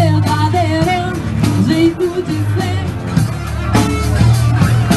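Rock band playing live with a singer: a sung melody over bass, electric guitar and regular drum strikes.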